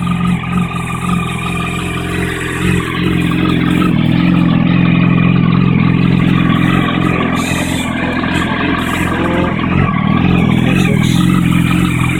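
2008 Yamaha R1's inline-four engine idling steadily after a cold start, now warmed up: the idle is smooth and the revs no longer hunt. It grows a little louder about four seconds in.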